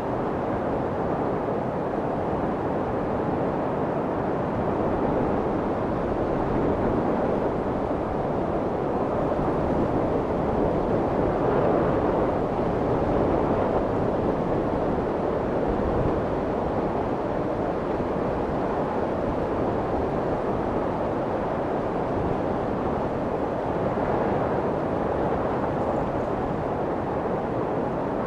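Steady white noise for soothing a crying baby, weighted toward the low and middle pitches so it sounds like a deep, even rush, meant to imitate the sound of the womb. It swells slightly about halfway through.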